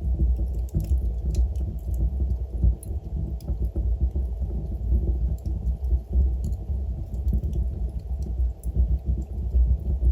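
Wood fire burning in a fireplace: a steady low rumble of the flames with many small, scattered crackles from the burning logs.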